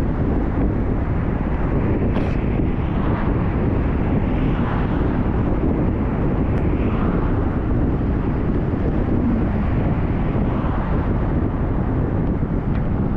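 Steady low rumble of a moving vehicle with wind buffeting the microphone, and a few faint ticks.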